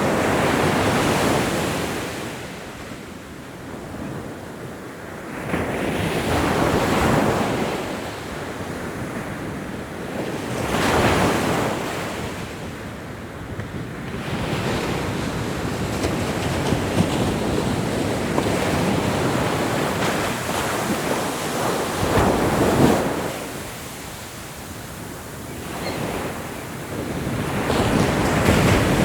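Ocean waves breaking and washing up on a shore, the surf swelling and falling away in several surges, with the loudest near the start, about a third of the way in, about three-quarters through, and again at the end.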